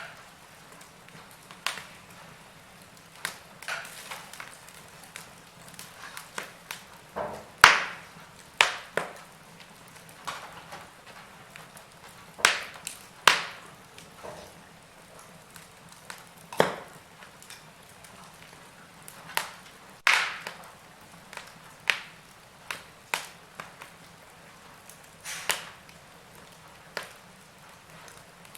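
Wood fire in a fireplace crackling, with irregular sharp pops and snaps every second or so and a few much louder cracks, over a faint steady hiss.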